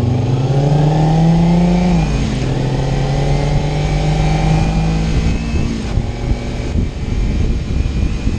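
Kawasaki Ninja 300's parallel-twin engine under way, revs climbing, then dropping sharply at a gear change about two seconds in. It holds a steady note before easing off, as road and wind noise take over near the end.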